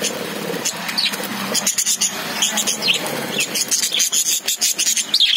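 A flock of caged budgerigars chirping and chattering: many quick overlapping chirps and short sliding whistles, with a steady low hum underneath.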